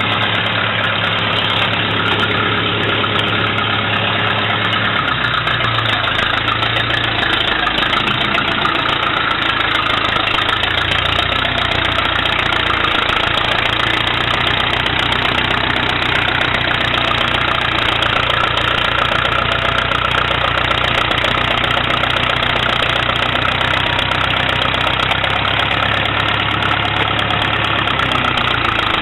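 International Harvester Utility 300 tractor's petrol engine running steadily. Its pitch shifts a few times in the first dozen seconds as the engine speed changes, then it settles.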